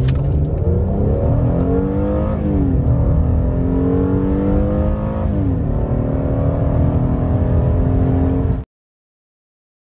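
2020 Kia Cadenza's engine accelerating hard under an automatic gearbox, rising in pitch through the gears with two upshifts, about two and a half and five and a half seconds in, where the pitch drops before climbing again. The sound cuts off abruptly about a second before the end.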